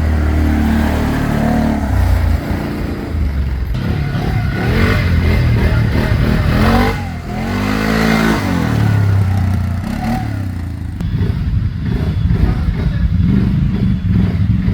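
ATV engines running and revving, their pitch rising and falling several times in the middle.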